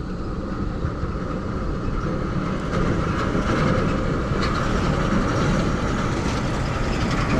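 Steady, loud drone of running machinery, growing a little louder about three seconds in, with a few faint clicks of parts being handled.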